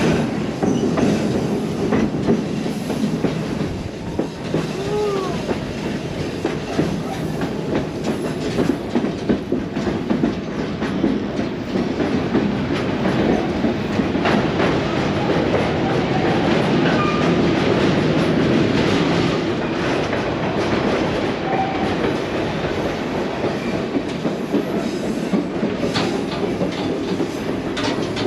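White Pass & Yukon Route narrow-gauge train running along the track, heard from aboard a passenger coach: a steady rumble with the clickety-clack of wheels over rail joints.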